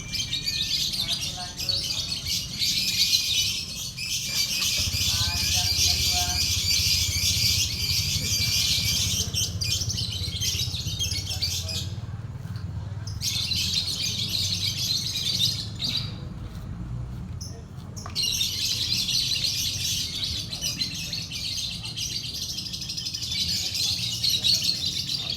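A lovebird singing in long, unbroken, high-pitched chattering trills, the drawn-out 'ngekek' song judged in lovebird contests. It breaks off twice, briefly about halfway through and again for a couple of seconds soon after, then resumes.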